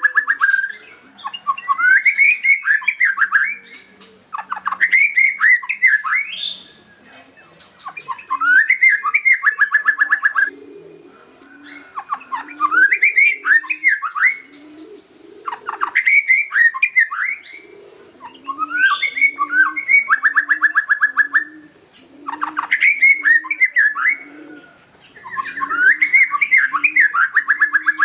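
Young white-rumped shama, just past its spotted juvenile plumage, singing its basic song: short phrases of whistles and fast trills, one every two to three seconds with brief pauses between. From about a third of the way in, a dove coos low and repeatedly underneath.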